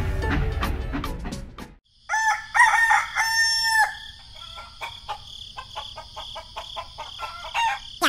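Music ending, then a rooster crowing about two seconds in, one long drawn-out crow. Short calls and a steady high-pitched hum follow.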